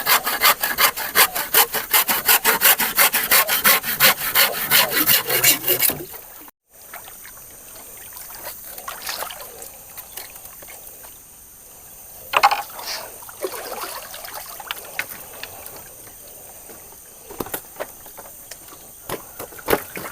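Hand saw cutting through wood with fast, even back-and-forth strokes, about four or five a second, stopping abruptly about six seconds in. Afterwards quieter rustling with a few sharp knocks.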